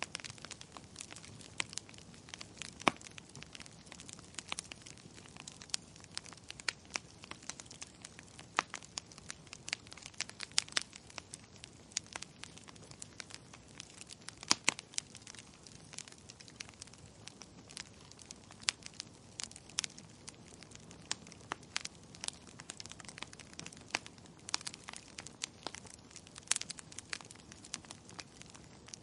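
Wood fire crackling: irregular sharp snaps and pops, some louder than others, over a steady soft hiss.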